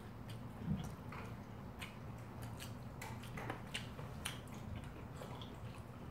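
Quiet chewing and eating sounds of two people at a meal of noodles and tteokbokki: scattered soft mouth clicks and small wet ticks over a low steady hum.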